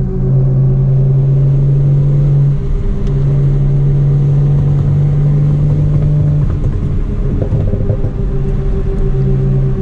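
Straight-piped BMW 335i's N55 turbocharged inline-six exhaust droning at steady cruising revs, dropping away briefly about two and a half seconds in and again past halfway, then coming back near the end.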